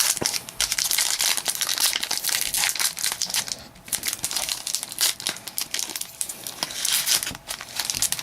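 Crinkling and tearing of a trading-card pack wrapper being ripped open and handled: a dense, fast run of irregular crackles.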